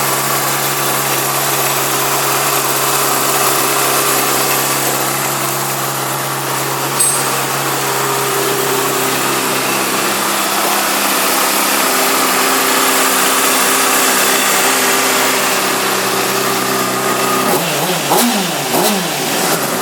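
2008 Honda CBR600RR's inline-four engine idling steadily, then revved in a few quick throttle blips near the end.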